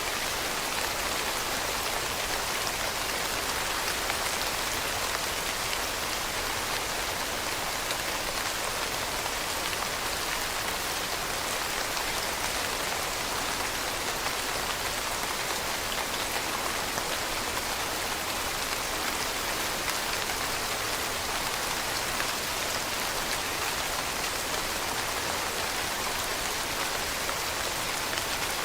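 Steady rain falling, an even hiss of many fine drops on a surface with no thunder or other breaks.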